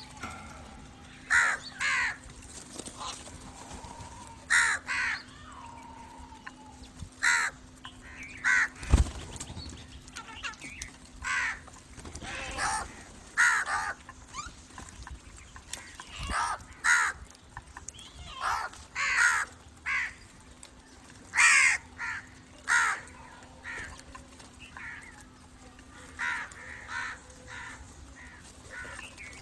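Crows cawing repeatedly: about twenty short, harsh caws, often in pairs, at uneven intervals. A single low thump comes about nine seconds in.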